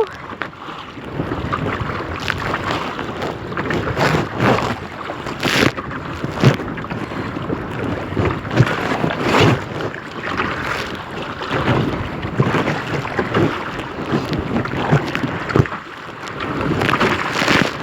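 Wind buffeting the microphone on a kayak in choppy water, with irregular splashes and slaps of water against the boat every second or so.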